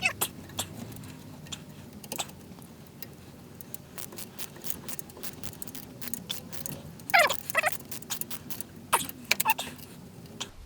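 Scattered clicks and clinks of small metal parts and hand tools being handled while fitting scroll saw blade chucks, with two short squeaks that slide down in pitch, about seven and nine seconds in.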